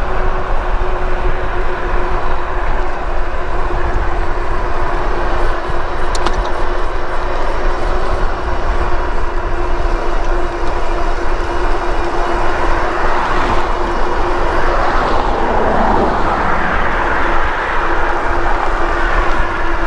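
Riding an e-bike at speed: wind buffeting the microphone with a steady whine from the bike's motor. About two-thirds of the way through, a passing vehicle swells up and fades away.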